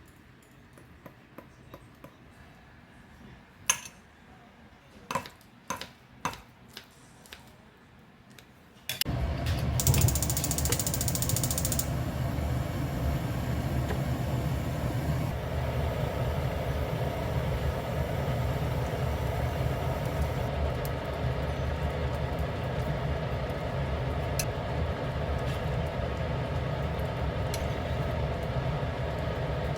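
A few light clicks and knocks, then a machine switching on about nine seconds in and running with a steady, loud motor hum, with a short burst of high hiss just after it starts.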